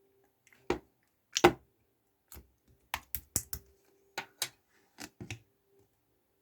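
A series of about a dozen light clicks and taps at irregular spacing, some in quick pairs, the loudest about one and a half seconds in.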